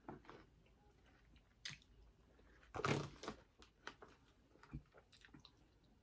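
Close-miked eating: chewing with scattered crunches and wet mouth clicks, the loudest bite about three seconds in.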